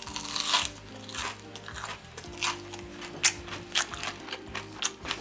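Crunching bites and chewing into a deep-fried cheese dog with a crisp prawn-cracker crumb coating, the coating still crispy ten minutes after frying. Soft background music plays underneath.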